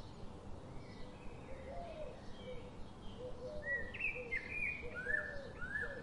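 Birds chirping in short, repeated calls over a steady low outdoor rumble, growing louder in the second half.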